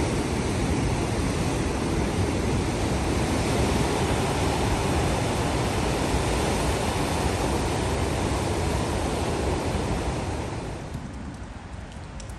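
Heavy rain falling, a steady dense rush of noise. About eleven seconds in it eases off to a quieter patter with a few separate drips.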